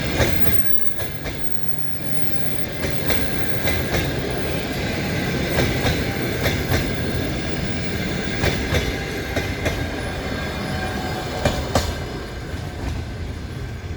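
Passenger train rolling in to a station stop: steady low rumble of the coaches with irregular sharp clicks as the wheels pass over rail joints, and a faint steady whine above.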